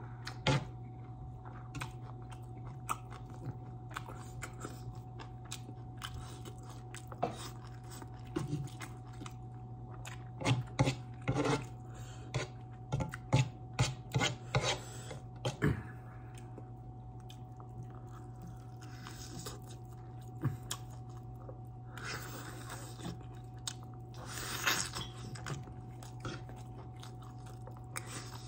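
Close-up chewing and biting on a barbecued turkey leg and rice: wet mouth sounds with small clicks and spoon scrapes on the plate, busiest for a few seconds around the middle. A steady low hum runs underneath.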